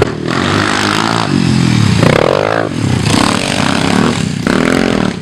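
Small pit bike engine revving up and down as it is ridden, its pitch rising and falling through the gears and throttle changes.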